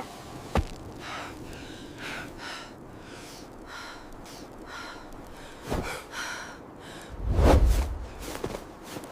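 Short breathy puffs of breath, about two a second. A sharp click comes just after the start, and a louder low rumble or thud comes about seven and a half seconds in.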